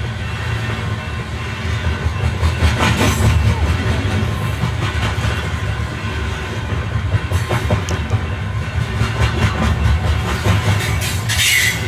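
A train running past on the rails with a steady low rumble and repeated wheel clacks over the rail joints. A brief metallic wheel squeal comes near the end.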